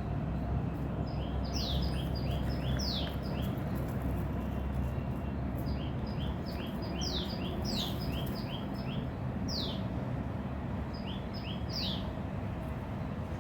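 A bird singing in three bouts of quick high chirps mixed with downward-sweeping notes, over a steady low background rumble.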